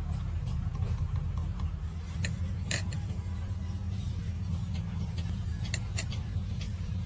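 Scattered light metal clicks and taps from hand tools working on truck gearbox parts, over a steady low rumble.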